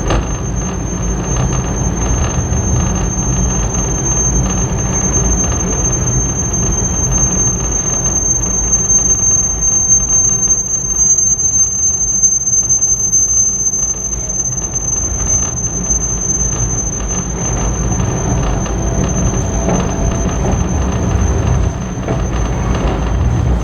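Railway carriage wheels squealing: one steady high-pitched squeal held throughout, over the low rumble of the train rolling along the track.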